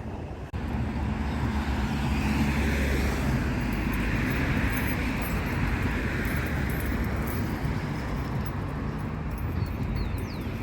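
Car on the move: steady engine and road noise, which steps up sharply about half a second in.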